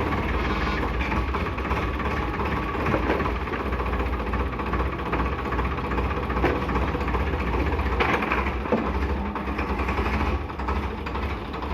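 Heavy machinery's diesel engine running steadily, with a few short metallic knocks.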